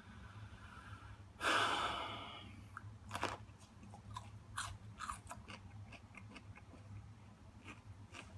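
A person biting into and chewing a raw jalapeño pepper: a loud breathy burst about a second and a half in, then scattered crunches and mouth clicks as it is chewed.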